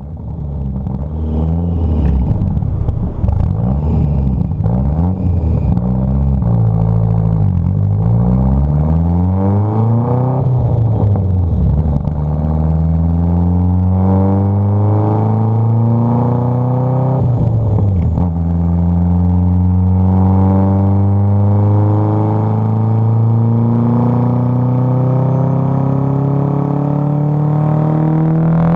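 Fiat Uno Turbo i.e.'s turbocharged four-cylinder engine, loud, revved up and down for about ten seconds, then run through two long pulls with the engine speed climbing steadily. The first pull ends about 17 seconds in with a short burst of noise as the revs drop.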